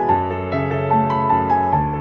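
Background piano music: a slow, gentle melody over sustained bass notes.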